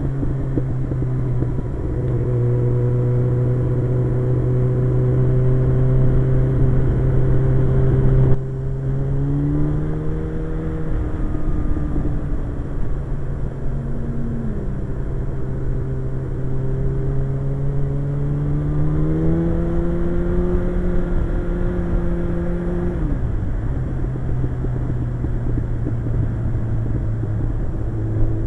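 Suzuki GSX-R 1100's inline-four engine running steadily under way, over a constant rush of noise. Its pitch steps up about nine seconds in, with a sudden dip in loudness, and again around twenty seconds, then falls away a few seconds later.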